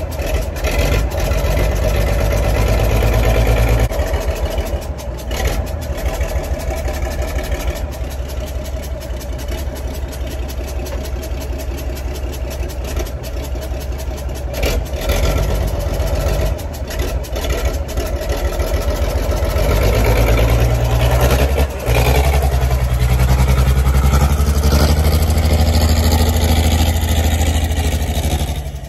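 1980 Bedford TK truck engine running, its head gasket blown. It drops back about four seconds in and rises again from about twenty seconds in, as if revving or pulling away.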